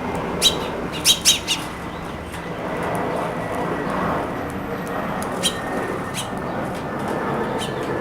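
Birds at a feeder chirping in short, sharp, high-pitched calls, a quick run of four in the first second and a half and a few scattered ones later, over steady background noise.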